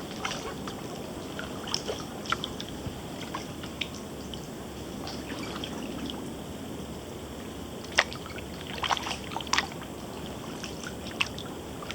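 Kayak paddling: water trickling and dripping off the paddle blades, with a few sharp drips or knocks, the loudest about eight seconds in and a cluster around nine and a half seconds.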